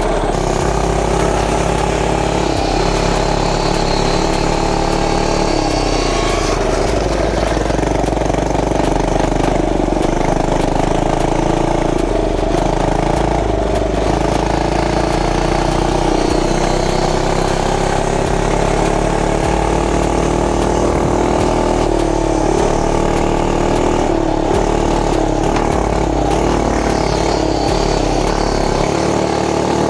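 Gas mini bike's small engine running while being ridden, its pitch rising and easing gently with the throttle.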